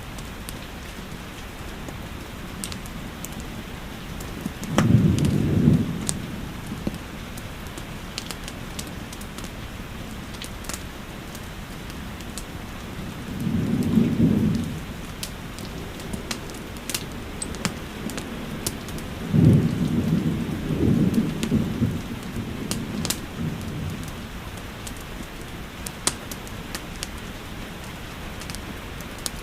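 Steady rainfall mixed with the sharp crackles and pops of a wood fire, with three low rumbles of thunder rolling through, the last one the longest.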